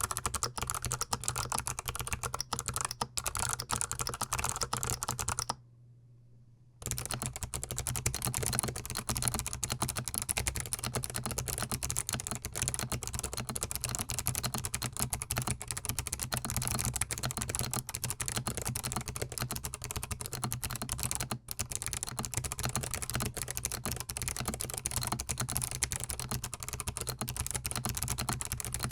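Fast typing on a GMMK Pro gasket-mount mechanical keyboard, the key switches clacking densely, broken by a pause of about a second some six seconds in.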